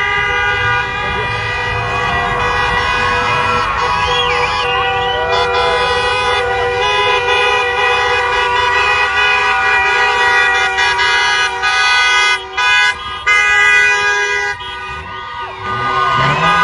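Several vehicle horns, truck air horns among them, honking at once in long overlapping blasts, with a few short breaks near the end. Voices of a crowd are heard under the horns.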